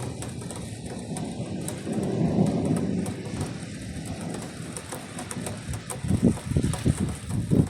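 Thunder rumbling, swelling about two seconds in, then breaking into a series of louder, crackling rumbles near the end, over a steady hiss of rain.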